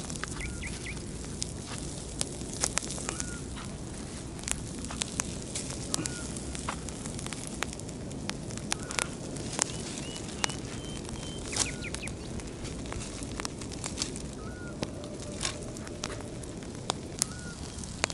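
Wood campfire of dry twigs and branches crackling, with sharp irregular snaps and pops over a steady hiss of burning.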